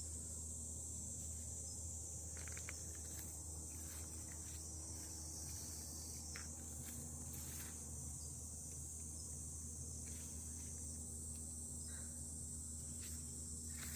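Crickets and other grass insects chirping in a continuous, high, steady chorus over a low background hum, with a few soft rustles now and then.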